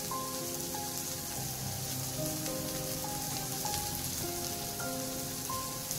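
Sliced onions, green chillies and curry leaves sizzling steadily in hot oil in a non-stick frying pan, with instrumental background music playing over it.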